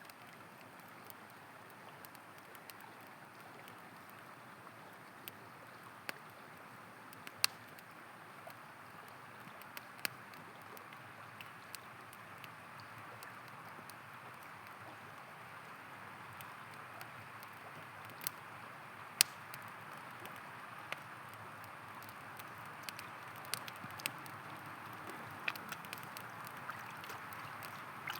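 River water flowing steadily, mixed with a campfire crackling: scattered sharp pops from the burning wood, two of them much louder, about seven and nineteen seconds in.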